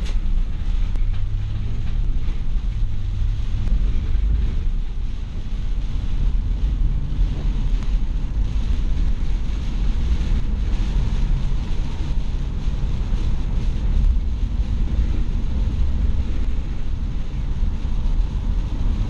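Car driving at highway speed through heavy rain: a steady low rumble of tyres on the wet road under an even hiss of rain and wind.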